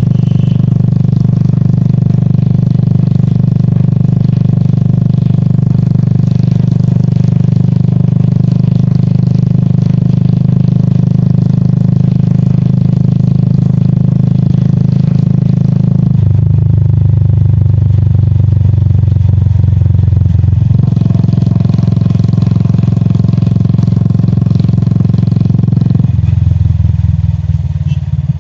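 Royal Enfield Classic 350's single-cylinder engine running steadily while riding. Its note changes twice, turning lower and duller at about 16 seconds in, picking up again at about 21 seconds and dropping back near the end.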